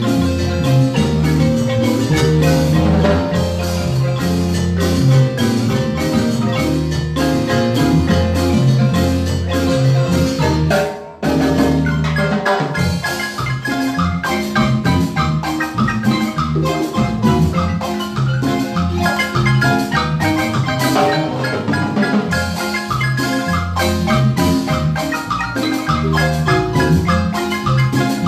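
Marimba ensemble playing a lively piece, with struck mallet notes over strong low bass notes. There is a brief break about eleven seconds in before the playing resumes.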